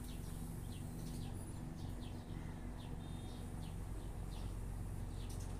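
Small birds chirping in the background: a string of short, high, downward-sliding chirps about every half second, over a low steady hum.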